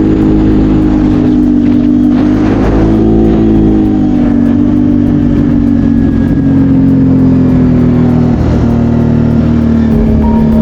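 BRP Outlander 650 quad's V-twin engine running steadily under way, its pitch easing slowly down.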